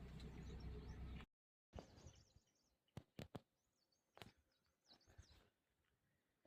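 A steady low rumble that cuts off abruptly about a second in. After it come faint small-bird chirps and a few sharp clicks over quiet outdoor ambience.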